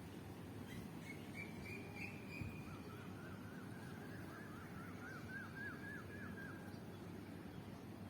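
A songbird singing: a short high trill, then a long run of quick repeated notes that climb slightly in pitch, over a steady low rumble of background noise.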